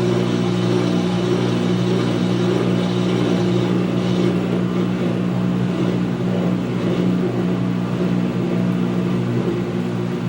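2006 GE Profile top-loading washer in its spin stage, the drum turning and the drain pump running: a steady hum of several low tones over a hiss.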